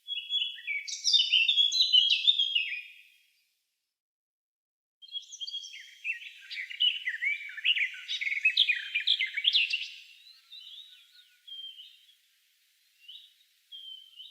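Songbirds of a May woodland singing: a rapid, jumbled high phrase for about three seconds, then after a short pause a longer, dense warbling phrase that trails off into scattered short calls.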